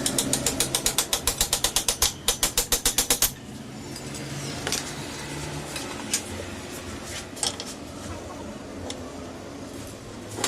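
Ratchet wrench cranked quickly, a fast even run of clicks at about nine a second with one short break, stopping after about three seconds. A few light tool clicks and knocks follow.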